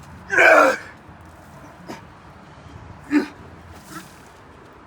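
Short, loud animal calls: one about half a second in, and a shorter one a little after three seconds.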